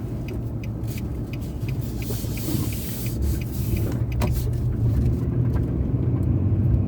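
Car interior road noise while driving at low speed: a steady low engine and tyre rumble, with a brief hiss of gravel or rough surface about two seconds in and a few light clicks and knocks.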